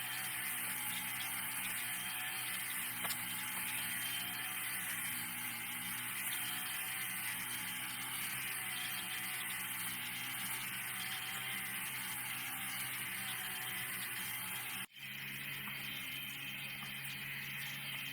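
Steady motor hum with a constant hiss over it. It drops out for an instant about 15 seconds in and then goes on, slightly changed.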